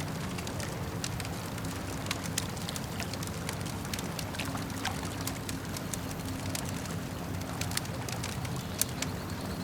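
Campfire crackling, with irregular sharp pops and snaps over a steady low wash of lake water. One of the louder pops comes near the end.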